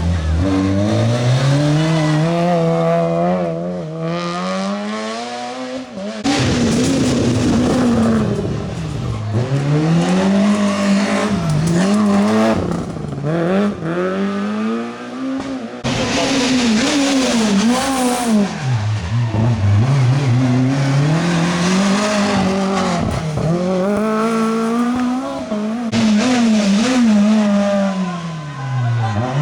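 Rally car engines driven hard on a stage, the note climbing and dropping again and again with gear changes and lifts for corners. The sound changes abruptly about 6 and 16 seconds in.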